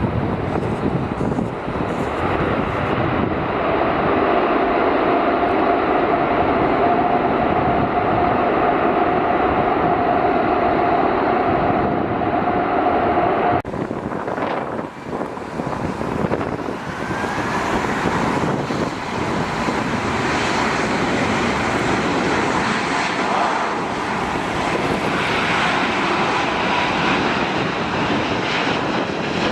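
Jet airliner engines running loud and close: a steady rush with a high whine held for several seconds. About halfway through the sound changes abruptly to a harsher, hissier roar.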